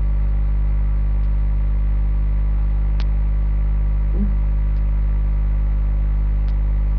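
Steady low electrical hum, unchanging throughout, with faint sharp clicks about every second and a half.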